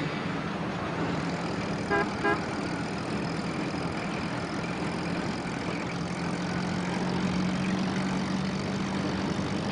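Van engine running steadily under a constant rush of wind, with two short horn toots about two seconds in.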